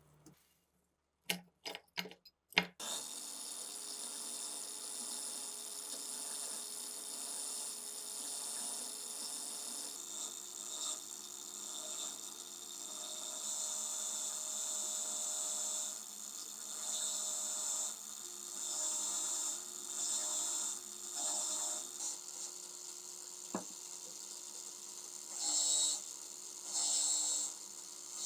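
A few sharp clicks, then a small electric power tool runs steadily with a high whine, getting louder in stretches as it is pressed against the work.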